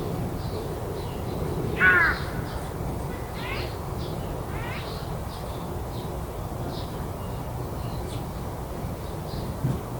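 A crow cawing: one loud harsh caw about two seconds in, followed by two fainter caws a second or so apart. Short, high bird chirps are scattered throughout over a steady low background rumble.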